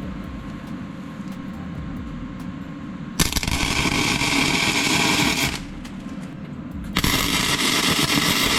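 Arc welding on steel: two crackling, sizzling welding runs of about two seconds each, starting around three seconds in and again about seven seconds in, over a lower steady crackle.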